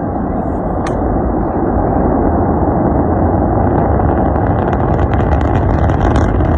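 Rocket engine's continuous, deep rumbling roar, growing louder, with crackling setting in from about four seconds in.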